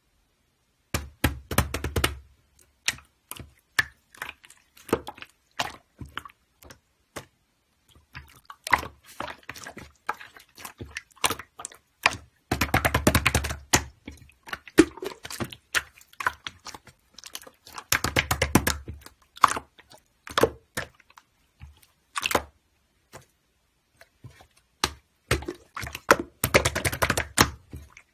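Irregular clicks and taps, coming singly and in dense rattling clusters of a second or two with a dull low thump underneath.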